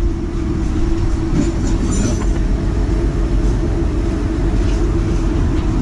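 Refrigerant recovery machine running with a steady low hum as it draws R134a refrigerant out of a car's air-conditioning system.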